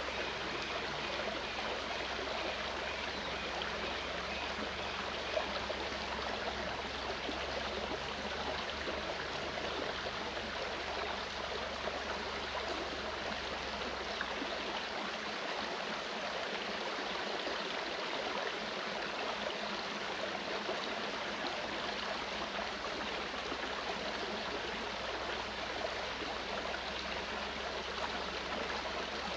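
Clear mountain stream running with a steady, even rush of water.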